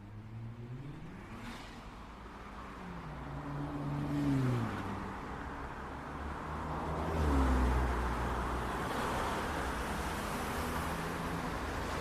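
City street traffic: cars driving past, their engines rising and falling in pitch as they speed up and pass. The loudest moment is a deep rumble from a passing vehicle about seven seconds in, and the steady hiss of traffic builds toward the end.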